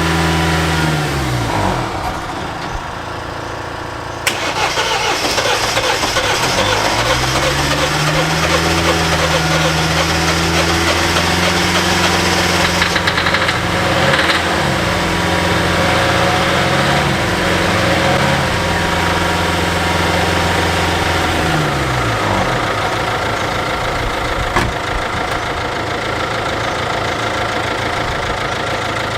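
MINI R56's 1.6 HDi DV6 diesel engine being turned over during an attempt to start it, an engine that is not catching properly. It winds down near the start, comes back suddenly about four seconds in and rises in pitch, holds steady with a few brief dips, then winds down again about twenty-two seconds in.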